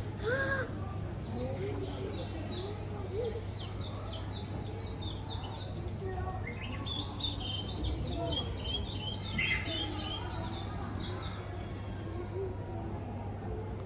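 Birdsong: runs of quick, high chirps, one starting about a second in and a longer one from about six seconds, over a steady low hum and faint voices.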